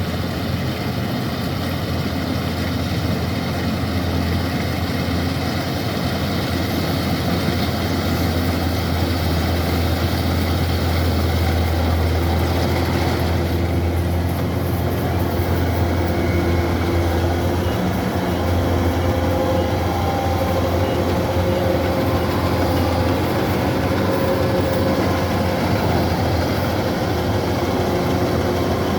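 Kubota DC-105X combine harvester running steadily: its diesel engine at a constant working speed with the noise of the cutting and threshing machinery over it. The upper part of the sound shifts slightly about halfway through.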